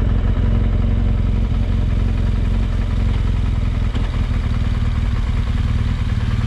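Motorcycle engine running at low, steady revs.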